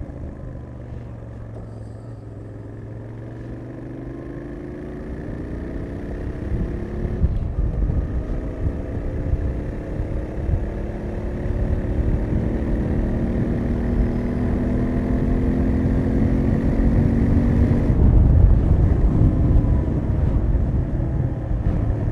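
Royal Enfield Interceptor 650's parallel-twin engine on its stock exhaust, accelerating through the gears. Its pitch climbs, drops back at a gear change about seven seconds in, climbs again for a long stretch, and drops once more near the end, getting louder overall.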